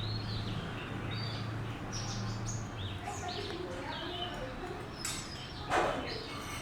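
Small birds chirping over and over, with short, high chirps coming every second or so. A single sharp knock sounds near the end.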